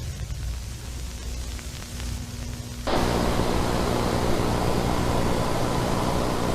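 A low electrical hum with faint crackles, then about three seconds in a loud burst of static hiss cuts in suddenly and carries on over the hum.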